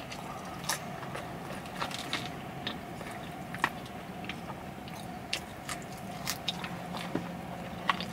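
A person chewing yam fries up close to the microphone, with soft, irregular mouth clicks scattered through it over a faint steady hum.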